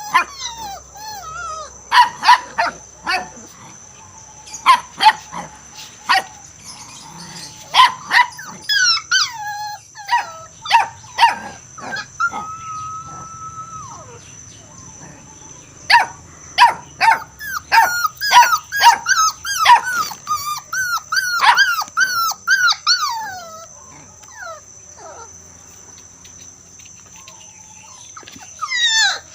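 A dog barking and yelping in quick repeated calls, with one held whine partway through and a fast run of high yips later on.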